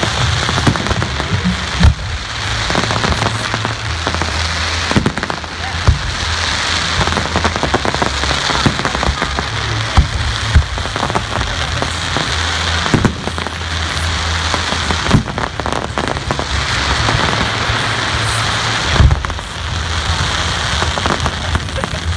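Fireworks display: a continuous dense crackling from glittering crackle effects, with sharp bangs of bursting shells every few seconds.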